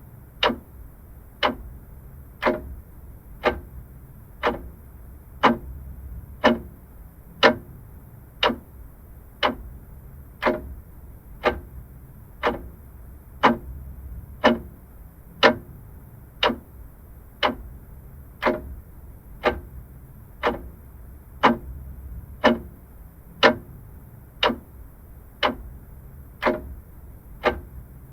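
Vintage mechanical clock ticking steadily, about one sharp tick a second, over a faint low hum.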